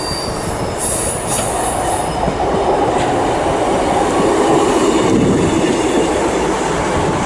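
Class 158 diesel multiple unit running into the platform, a steady rumble of engines and wheels on the rails that grows a little louder from about three seconds in, with a brief high squeal about a second in.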